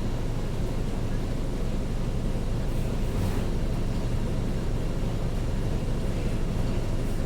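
Mercedes-Benz OF-1722M city bus running, a steady low diesel rumble, with a brief hiss about three seconds in.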